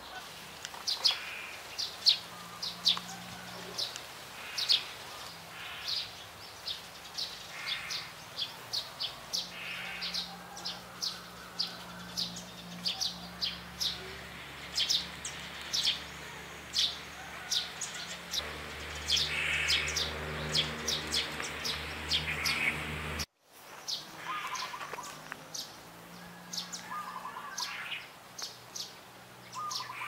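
Small birds chirping: many short, sharp, high chirps, at times several a second, with a brief break about three-quarters of the way through.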